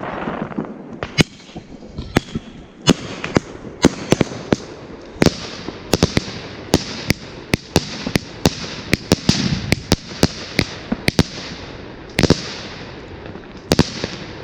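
Small titanium salute fireworks battery firing: a rapid, irregular string of sharp, loud bangs, roughly one to two a second, thickest in the middle, with brief hissing between shots.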